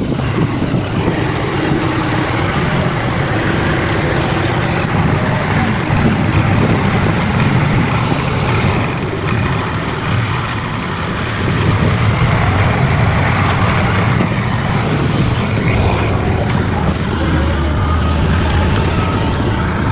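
Bulldozer's diesel engine running steadily, easing off briefly about ten seconds in and then picking up again.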